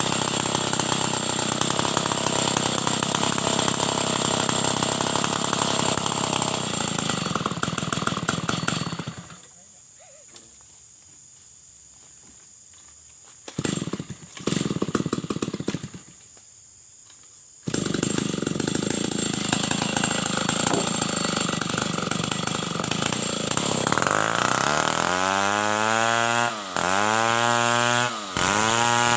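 Stihl 070 two-stroke chainsaw running hard while ripping timber into boards. About a third of the way in the sound falls low for several seconds, apart from two short bursts, then the saw comes back at full throttle. Near the end its engine speed dips and climbs back up several times in a row.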